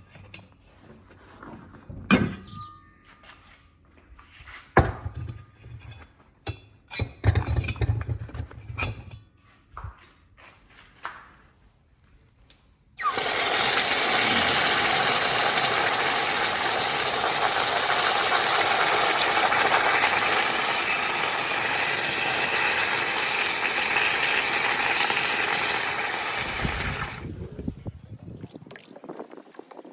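A series of knocks and clinks of objects being handled, then water runs steadily for about fourteen seconds before it is shut off.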